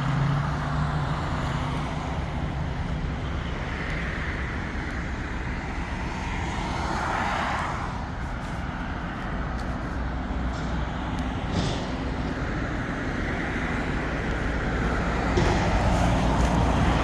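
Road traffic noise: a steady rush of passing vehicles that swells about seven seconds in and builds again near the end.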